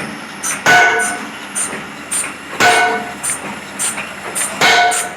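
Rhythmic metallic clanking: a loud ringing clang about every two seconds, with lighter knocks about every half second between them.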